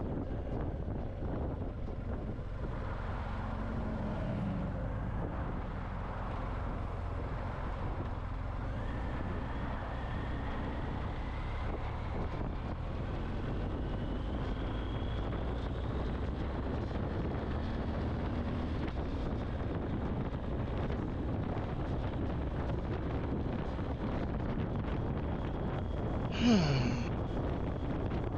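Motorcycle riding noise through a helmet communicator microphone: steady wind rush over the BMW R 1250 GS Adventure's running engine. A faint tone rises slowly in the middle, and near the end a brief louder sound drops in pitch.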